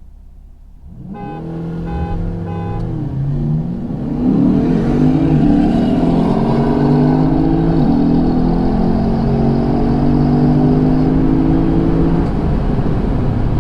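Three short beeps, then a V8 car accelerating hard: engine pitch climbs, drops back twice as it shifts up a gear, then holds fairly steady.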